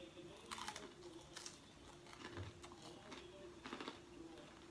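Close-up chewing of a pizza slice: short clusters of soft crisp crackles, three times, over a faint steady hum.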